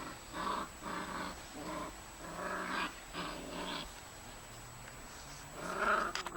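Five-week-old Old German Shepherd puppies vocalizing at play: a string of short pitched yelps and grumbles, a pause, then one louder call near the end.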